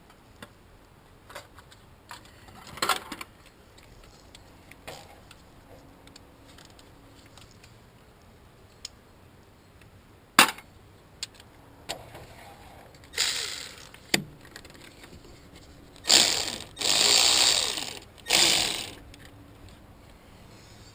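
Scattered clicks and knocks of hand tools working on an engine, with one sharp knock about ten seconds in. Several longer bursts of rushing noise follow, the longest lasting about two seconds near the end.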